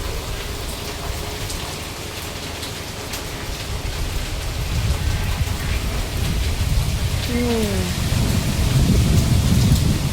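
Heavy rain falling in strong typhoon wind, with low rumbling gusts that grow louder through the second half. A brief falling squeak-like tone sounds about seven seconds in.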